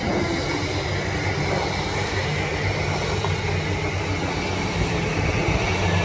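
JR East E235 series 1000 electric train moving along a station platform: a steady rumble of wheels on rail with a low steady hum beneath it.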